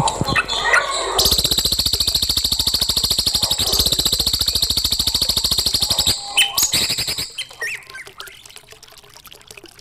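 Recorded songbird calls: a few short notes, then a very fast, even trill lasting about five seconds, followed by a shorter burst of calls and a quieter end.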